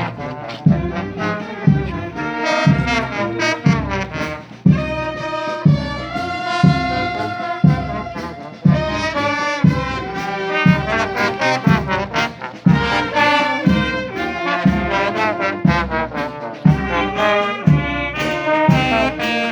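Brass band with trumpets and trombones playing a slow processional march, a bass drum striking about once a second under held melody notes.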